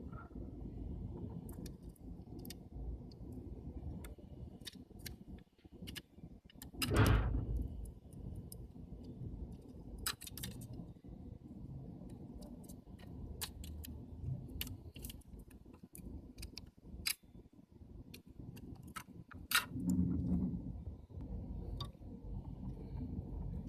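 Small parts of a disassembled camera lens clicking and clinking as they are handled and fitted, in many scattered light taps over a steady low rumble, with a heavier low thud about seven seconds in and another near the end.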